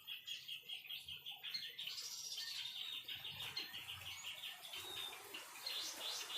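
White-rumped shama (murai batu) singing: a fast string of repeated chirps, about eight a second, turning into a denser, varied warble about a second and a half in.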